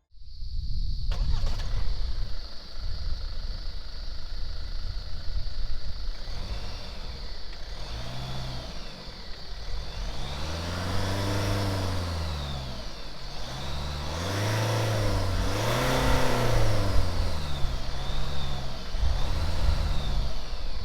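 Kia Sorento's 2.2-litre turbo-diesel four-cylinder engine revving, its pitch swelling up and falling back repeatedly over a low rumble, with a steady high whine underneath throughout.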